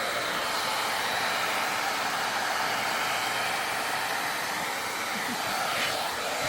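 Hair dryer brush running steadily, its fan blowing a constant rush of air.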